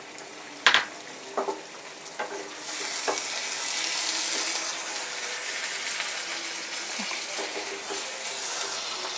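Marinated chicken and onion masala sizzling in a frying pan and being stirred with a spoon. A few sharp clicks of the spoon on the pan come in the first three seconds, then a steady sizzle takes over.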